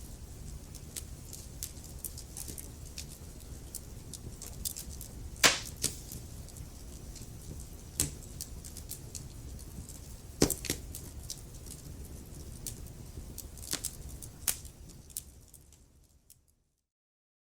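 Wood fire crackling, with a steady low rumble under many small crackles and several sharp pops, the loudest about a third of the way in. It fades out to silence near the end.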